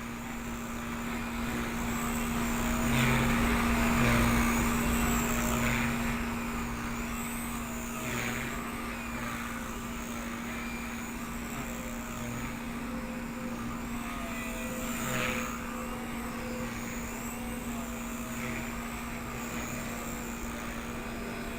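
Blade 130X electric RC helicopter in flight, its motor and rotor whine wavering up and down in pitch as the throttle changes. It is flying on a stripped main gear that is missing about ten teeth.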